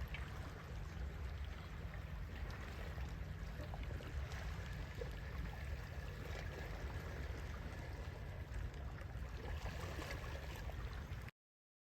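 Flowing or lapping water over a steady low rumble, cutting off suddenly near the end.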